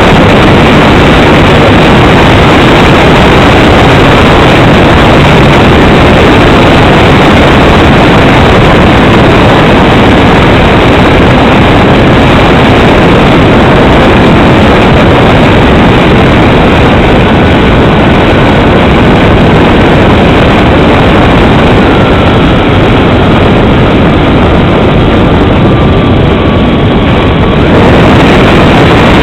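Steady, very loud engine and airflow noise from a Cessna 310 landing, recorded close and near distortion, with faint thin tones that drift slightly lower in pitch late on.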